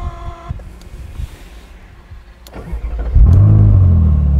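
A short tone, then about two and a half seconds in the starter cranks briefly. The Ferrari California 30's 4.3-litre naturally aspirated V8 fires with a loud rev flare and settles toward a steady idle.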